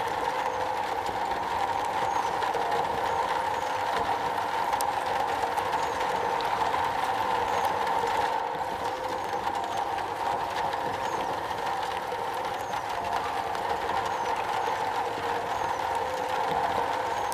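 Rain falling steadily on a metal roof, a dense, even patter.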